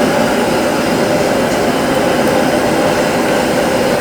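Loud, steady roar of commercial kitchen equipment, with a constant hum running through it and no change.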